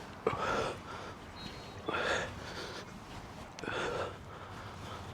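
A man's sharp, forceful breaths during a heavy kettlebell set, three of them about two seconds apart, in time with the repetitions.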